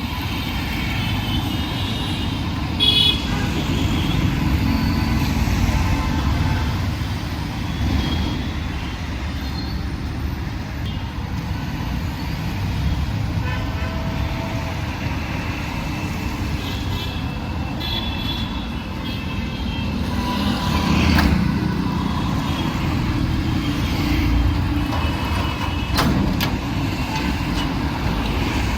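Busy city street traffic: cars, trucks and motorbikes running and passing in a steady rumble, with short horn toots now and then, the loudest about three seconds in.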